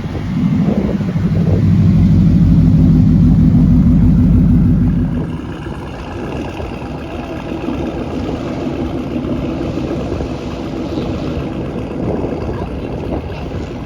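A car engine running with a loud, steady low note for about the first five seconds, then dropping back to a quieter running sound.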